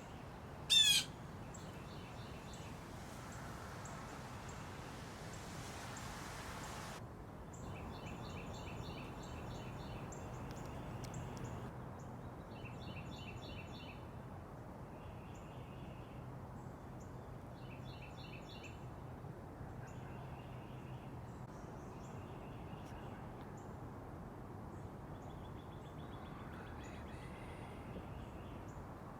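Backyard songbirds calling. A loud, quick falling run of chirps about a second in is followed by short trilled phrases repeating every couple of seconds, over a steady hiss that drops off suddenly about seven seconds in.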